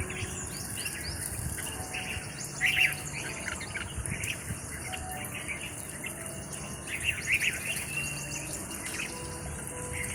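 Several birds chirping and calling in quick, overlapping bursts, loudest a little under 3 seconds in and again around 7 seconds, over a steady high-pitched insect hiss.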